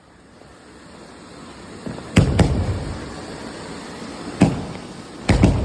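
24-shot multicolour firework cake firing: a hiss builds for about two seconds, then sharp bangs go off, two in quick succession, a single one, then another quick pair near the end.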